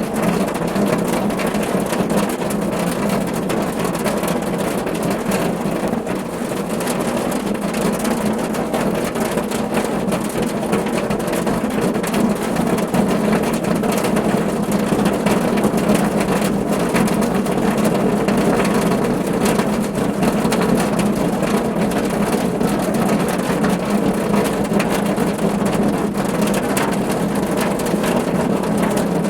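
Steady rain falling on a car roof: a dense, even patter of drops over a low drumming.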